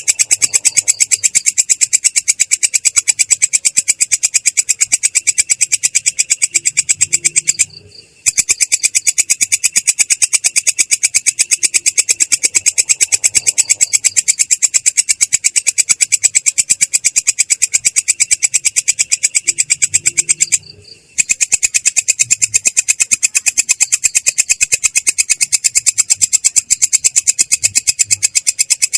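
A belalang kecek katydid stridulating in a continuous rolling trill of rapid, evenly spaced, high-pitched pulses, clear yet coarse. It breaks off briefly twice.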